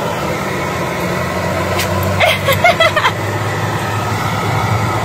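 Vacuum cleaner running with a steady motor hum, with a few brief clicks about two to three seconds in.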